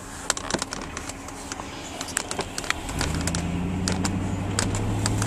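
Scattered sharp clicks, then about three seconds in a car engine comes in and runs steadily with a low drone.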